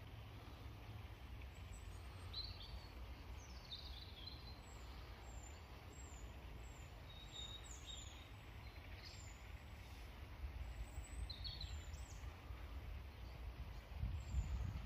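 Small birds chirping and singing in short, high calls, with a run of quick descending chirps through the middle, over a low background rumble that grows louder near the end.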